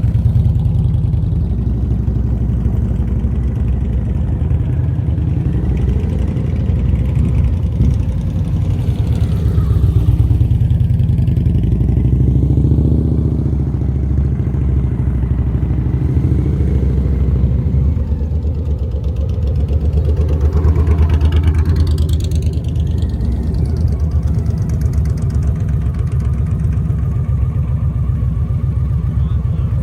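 Motorcycle engine running steadily at low speed with the revs held up, swelling and easing as the bike is worked through slow, tight turns in the friction zone. About two thirds of the way through, a brief higher whine rises and falls.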